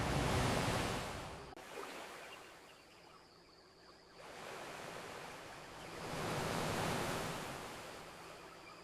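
Ocean waves washing onto a beach: one swell of surf at the start, dying down, then a second wave rising and breaking about six to seven seconds in.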